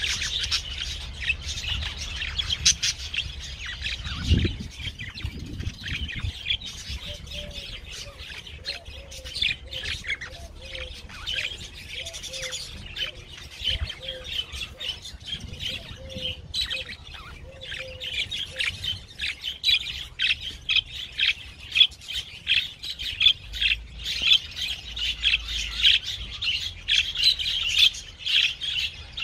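Birds chirping and twittering in rapid, short calls, growing busier toward the end, with a dull low thump about four seconds in.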